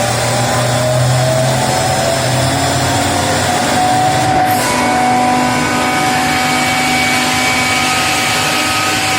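BAC 50 HP electric screw air compressor running: a loud, steady mechanical drone with a whine over it. A low hum in it drops away about three seconds in.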